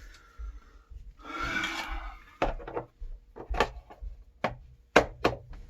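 A scraping rub lasting about a second, followed by about five sharp knocks over the next three seconds.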